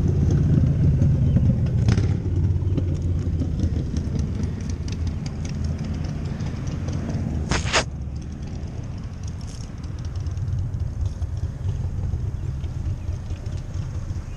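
Low rumble of a car engine running close by, with two knocks from the camera being handled, the louder one just past halfway.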